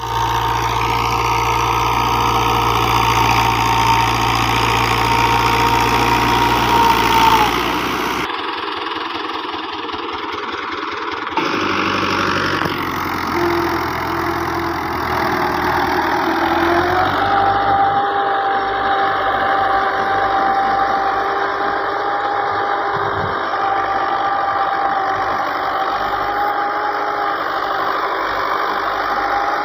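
New Holland Dabung 85 hp tractor's diesel engine running steadily with a high, even whine over it. The sound changes abruptly about eight seconds in and again about eleven seconds in, then settles into a steady run with a slightly lower whine.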